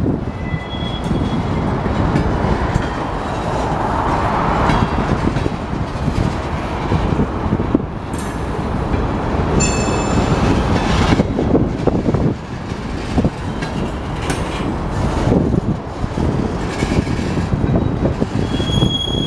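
A long Union Pacific freight train of empty centerbeam flatcars rolling slowly past, its wheels and cars rumbling and rattling over the rails with scattered clanks. Brief high-pitched wheel squeals come about a second in, more strongly around ten seconds in, and again near the end.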